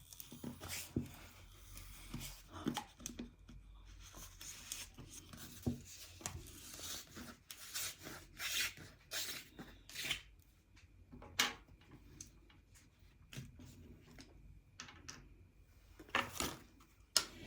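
Toilet tissue being torn and crumpled by hand, soft irregular rustling and tearing with scattered small clicks and taps.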